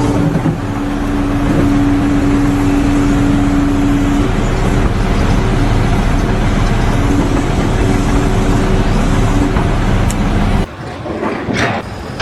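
Loud engine noise of a heavy motor vehicle or machine running, with a steady low hum and a held tone in the first few seconds; it drops away abruptly near the end.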